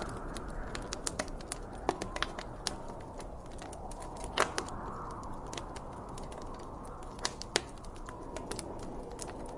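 Wood fire crackling: irregular sharp pops and snaps over a steady low hiss, with a louder pop about four and a half seconds in.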